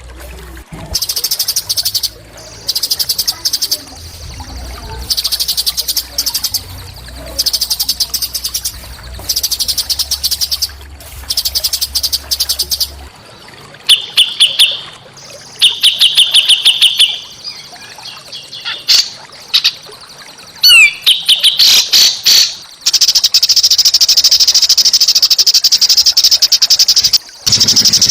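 Small songbird singing harsh, rapid chattering phrases of about a second each, repeated with short gaps. These give way to varied whistled notes and quick up-and-down glides, and then, from about two-thirds through, to a long unbroken rapid trill.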